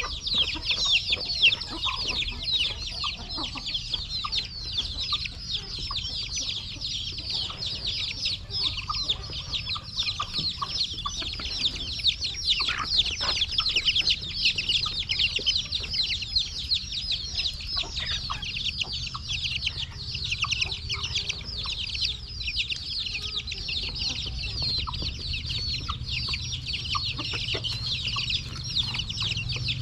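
A large brood of chicks peeping all at once: a dense, unbroken chorus of high, short, falling cheeps.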